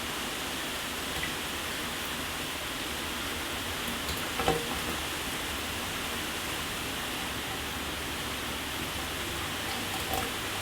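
Shower water running steadily and spattering on a hard surface, an even hiss with scattered drips; one louder splash about four and a half seconds in.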